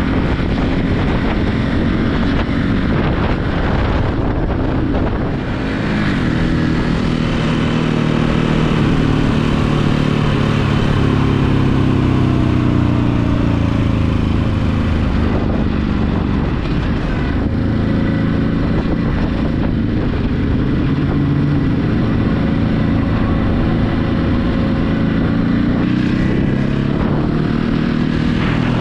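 Stock Ducati Hypermotard motorcycle engine running under way, its pitch climbing as it accelerates through the revs about six seconds in, easing off, then climbing again near the end.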